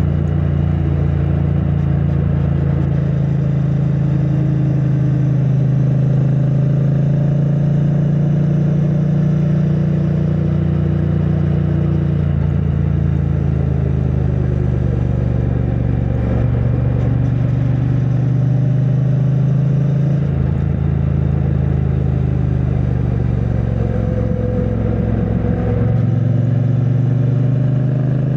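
2022 Triumph Bonneville T100's 900 cc parallel-twin engine through its stock exhaust, running steadily at cruising speed, with the engine note dipping and rising a little a few times as the throttle changes.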